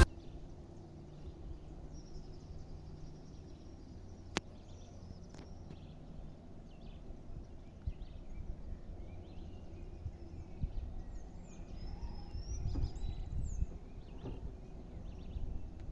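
Faint birdsong outdoors: scattered short chirps and whistles, busiest near the start and again later on, over a low rumble that swells near the end, with one sharp click about four seconds in.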